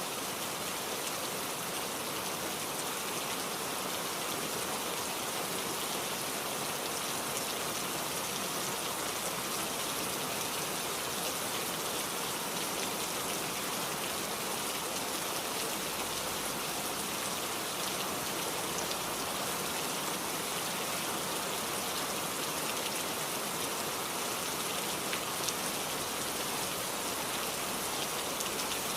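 Heavy rain falling steadily, a dense, even hiss of raindrops striking surfaces with fine patter on top.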